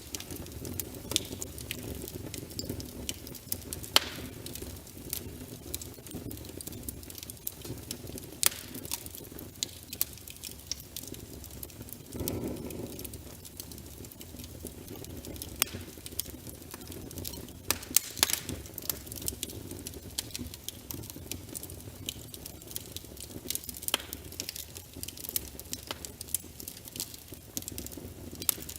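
Logs burning in a fireplace: irregular sharp crackles and pops over a steady low rumble of the flames, with a brief swell of the fire about twelve seconds in.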